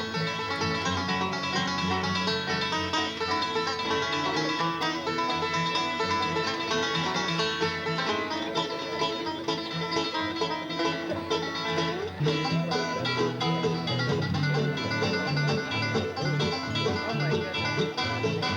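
Live bluegrass band playing, with banjo and guitar picking.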